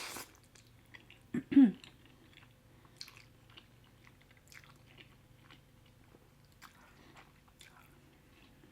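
Close-miked chewing of shrimp Alfredo pasta, soft wet mouth clicks scattered irregularly. About a second and a half in, a brief loud voiced sound from the eater stands out.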